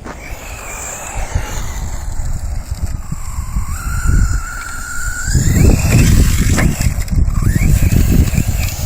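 R/C short course trucks running and jumping, their motors whining as they go. The whine climbs in pitch about halfway through, and a heavy low rumble fills the second half.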